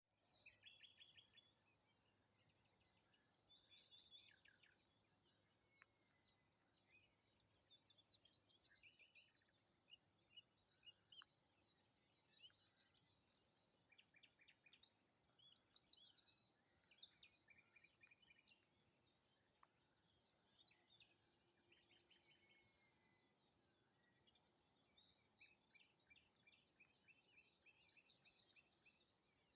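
Faint chorus of songbirds singing and chirping in spring. One bird repeats a short, high, buzzy phrase of about a second roughly every six to seven seconds.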